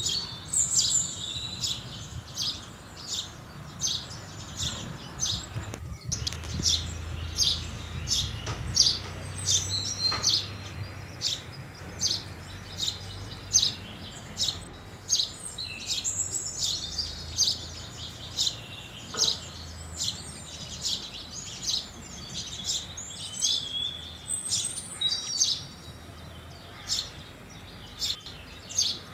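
House sparrows chirping: a steady stream of short, high chirps, sometimes several in quick succession, over a faint low background rumble.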